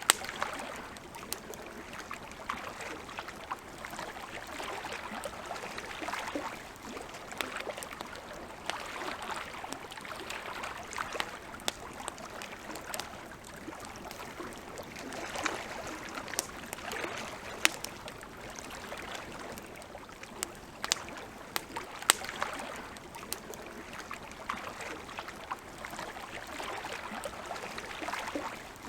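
Wood campfire crackling, with irregular sharp pops, over a steady wash of lake water lapping that swells and fades every few seconds.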